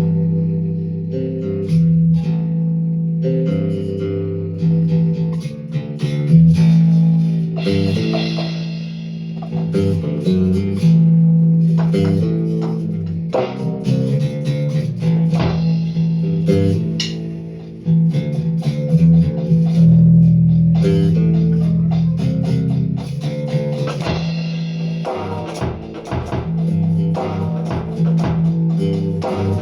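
Squier Precision Bass electric bass played in a jam: a riff of held low notes changing every second or so, with occasional sharp higher hits mixed in.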